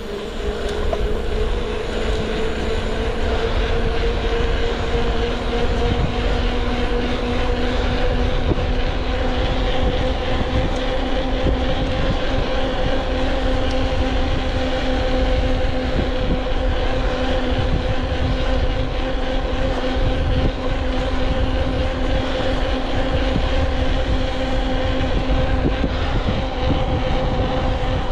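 A motor vehicle's engine running under steady load. Its pitch rises a little in the first couple of seconds and then holds, over a constant low rumble.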